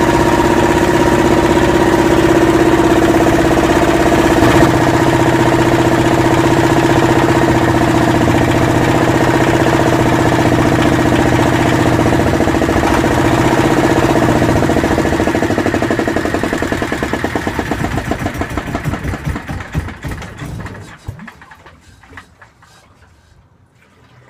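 Yanmar SB12 single-cylinder marine diesel running steadily, then dying: about two-thirds of the way through its firing strokes grow weaker and slower and it stops. The stall comes just after the fuel system was bled, and the owner is not sure why it died.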